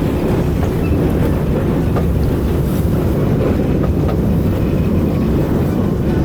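Steady low rumble of a sportfishing boat's engines running underway.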